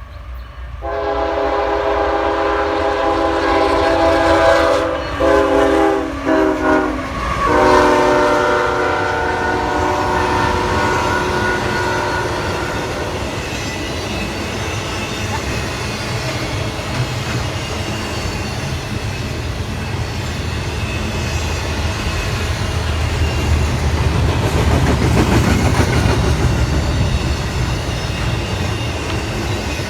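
CSX diesel locomotive sounding its multi-chime air horn in several blasts, the last one held long, as the train approaches and passes. After the horn stops, the train rolls by with rumbling and wheels clicking over the rail joints, loudest about three quarters of the way through.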